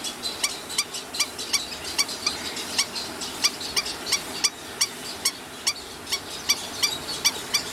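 Eastern cattle egret calls: a rapid, irregular run of short, sharp, high calls, several a second.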